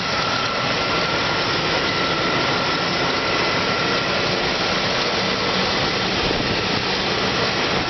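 1997 Chevrolet Suburban's 5.7-litre Vortec V8 idling steadily with the hood open, a thin high-pitched whine held steady over the engine noise.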